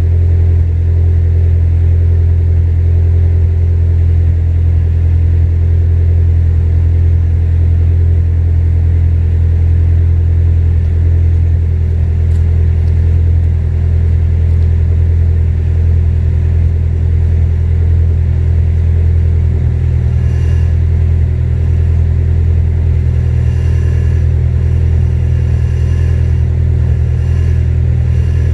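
Supercharged Acura TSX with a J's Racing full titanium exhaust idling, a loud, steady low exhaust note that holds the same pitch throughout.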